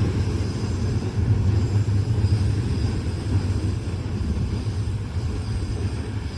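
A train passing close by at speed: a steady, loud rumble of its cars' wheels on the rails.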